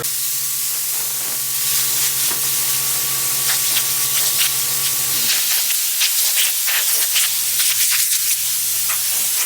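Dual-action orbital sander running on a car's painted panel, sanding back sun-damaged clear coat: a loud steady hiss with scratchy streaks as the pad works the surface. A low steady hum underneath stops about halfway through while the sanding hiss carries on.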